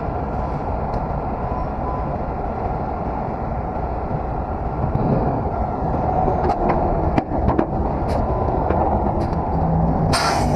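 Semi truck's diesel engine running steadily while the RGN trailer's removable gooseneck is lowered, with a few sharp metal clanks past the middle and a short hiss of air near the end.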